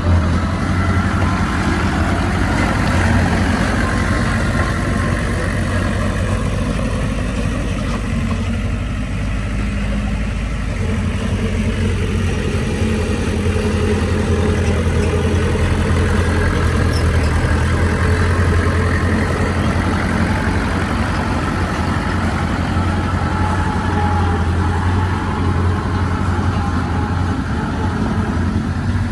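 Heavy diesel engine of earthmoving machinery running steadily with a deep, even drone, its tone drifting slightly as the load changes.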